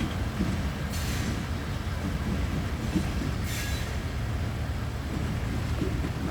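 Train moving through a rail yard: a steady low rumble with two brief high screeches, about a second in and again around three and a half seconds in, typical of wheels squealing on the rails.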